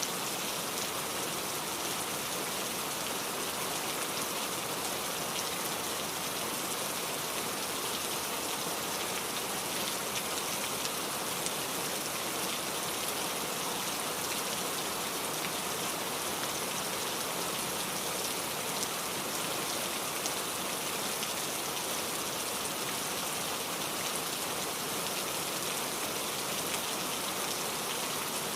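Steady rain falling, an even hiss of many drops with faint fine patter and no pauses.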